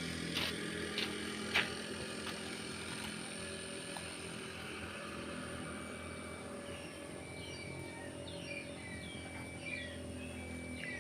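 Engine of a CC201 diesel-electric locomotive running steadily, with a few sharp clicks in the first two seconds. Birds chirp repeatedly over it from about halfway through.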